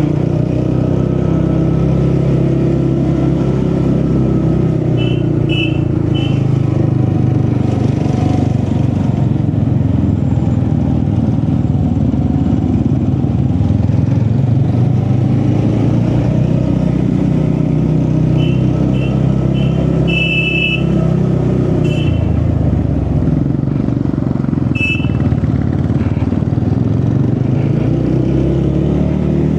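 TVS Ronin motorcycle's single-cylinder engine running under way, its pitch rising and falling as the rider opens and eases the throttle. Small groups of short high beeps sound about five seconds in and again past the middle.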